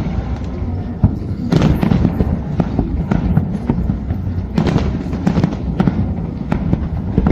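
Fireworks display: a continuous barrage of booms and sharp bangs over a low rumble, with louder clusters of bursts about a second and a half in and again near five seconds.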